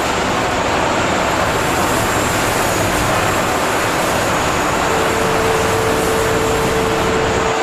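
Steady, loud machinery roar of an aluminium melting furnace and its electromagnetic induction stirrer running. A steady mid-pitched tone joins about five seconds in and holds to the end.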